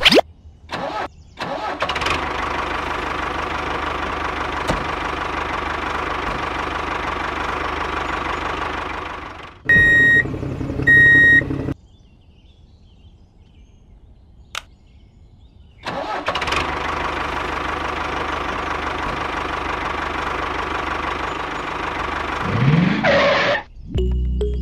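Motor of a miniature DIY toy tractor starting and then running with a steady drone, broken by two short high beeps about ten seconds in and a quiet pause. The drone starts again and ends in a brief rising whine just before it stops.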